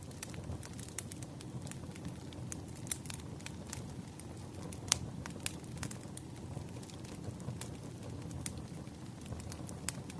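Firewood burning: a steady low rumble of the fire with irregular crackles and pops from the logs, one sharper pop about five seconds in.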